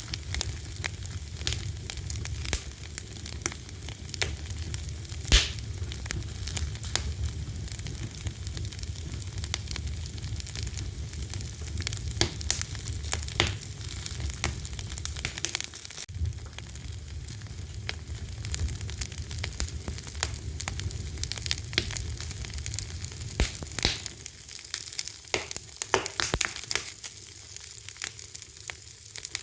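Wood fire burning and crackling, with a steady hiss, frequent sharp pops and a low rumble of flames. One loud pop comes about five seconds in, and the rumble fades near the end.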